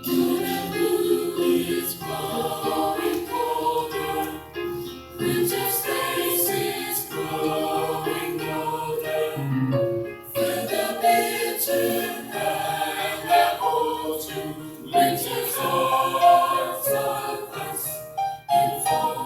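School chorus singing together, several voices holding and changing sustained notes.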